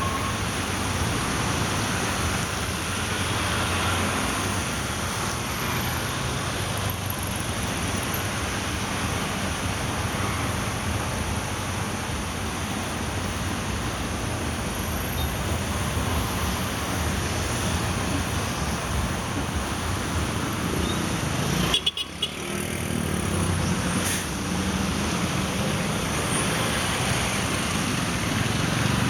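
Steady vehicle and road noise of driving through city traffic, with a short thump and a momentary dip about three quarters of the way through.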